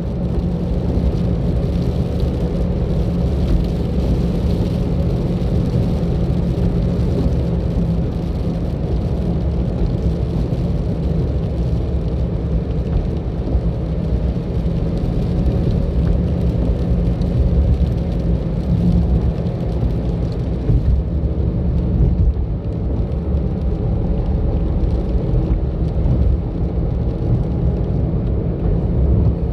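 A car being driven along a road: a steady low rumble of engine and tyre noise.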